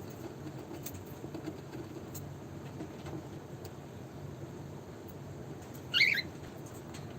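A cockatiel gives one short, wavering chirp about six seconds in, over a steady low background hum and a few faint ticks of birds moving about the cage.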